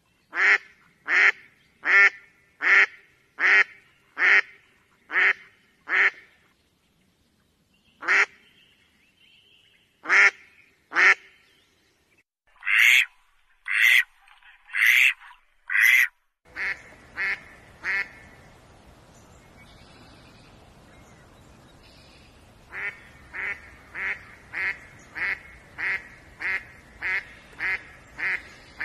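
Philippine duck (Philippine mallard) quacking in runs of short, evenly spaced quacks, about two a second, with a sparser stretch of single quacks a third of the way in. A little past halfway a steady background hiss comes in, and the quacks over it are quieter.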